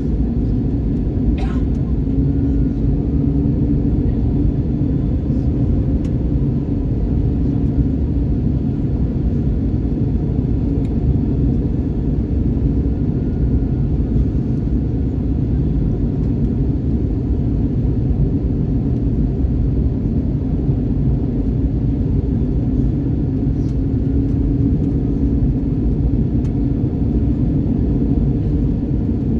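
Steady low rumble of an Airbus A321neo airliner heard from inside the passenger cabin: engine and airflow noise with a constant hum.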